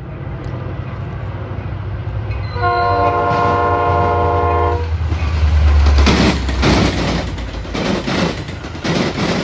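Metra commuter train passing: the diesel locomotive's horn sounds one long blast of about two seconds and its engine rumbles loudly as it goes by. Then the bilevel passenger cars' wheels clack in a steady rhythm over the track.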